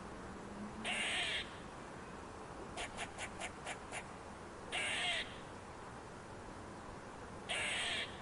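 An animal's harsh, hissing calls, three of about half a second each, with a quick run of short clicks between the first and second.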